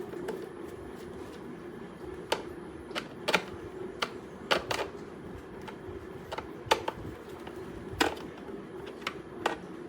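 Irregular sharp clicks and taps of a screwdriver undoing the screws of a mixer grinder's plastic casing, about a dozen spread over several seconds, over a steady low hum.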